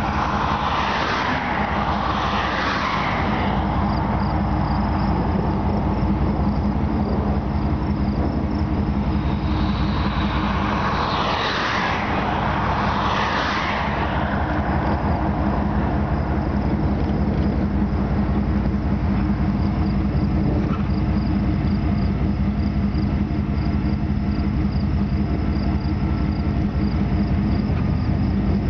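Steady low hum of a vehicle engine with road noise. Twice, passing traffic swells and fades: once near the start and again around ten to fourteen seconds in.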